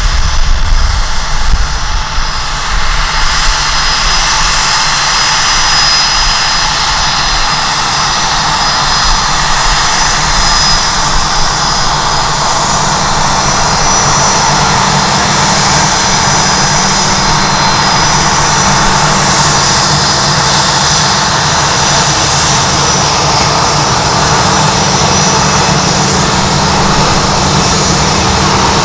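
Jet airliner engines running with a steady loud rush and a thin high whine. Gusty wind buffets the microphone in the first few seconds.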